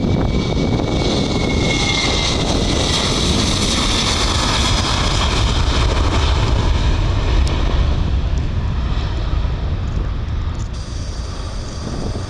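Jet airliner's engines running loud and steady: a deep rumble with a high whine that swells over the first few seconds, then eases off toward the end.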